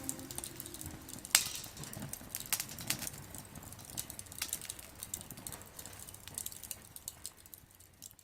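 Small wood-fire grill crackling and popping, with irregular sharp pops over a faint hiss and one loud pop about a second in, fading away toward the end.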